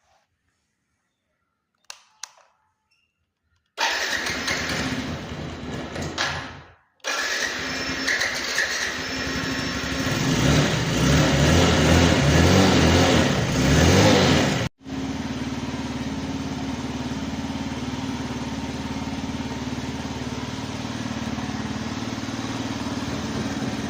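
Suzuki GD110S single-cylinder four-stroke motorcycle engine cold-starting after a couple of faint clicks. It runs unevenly at first, gets louder and higher for a few seconds in the middle, then settles into a steady idle.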